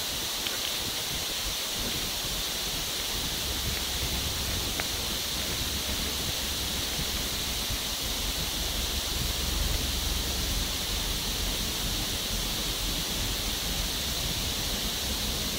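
Steady rushing noise of riding a bicycle over ice: wind on the body-mounted camera's microphone mixed with tyre and rolling noise, even throughout with a brighter hiss in the upper range.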